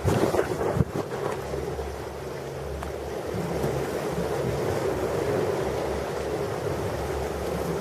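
Ocean surf with wind buffeting the microphone in loud gusts during the first second, settling into a steady wash over a low rumble.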